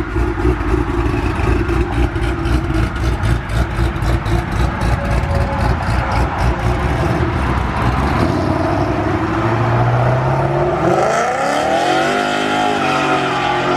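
Cammed Pontiac G8's engine idling with a choppy, lopey beat, then revving up with a rising pitch about ten seconds in as the car pulls away.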